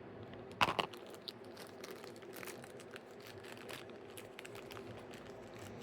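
Small plastic blind bag crinkling as it is handled and torn open by hand, with a short burst of louder crackles under a second in, then soft scattered crinkles.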